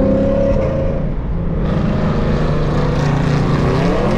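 Lexus V8 engine running on the road. The note holds, eases off about a second in, then climbs in pitch near the end as the engine revs up.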